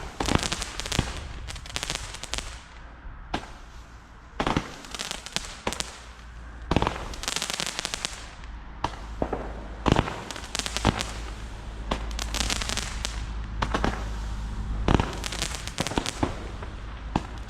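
New Year's Eve fireworks going off: a string of sharp bangs and several dense clusters of rapid crackling pops, over a steady low rumble of more fireworks.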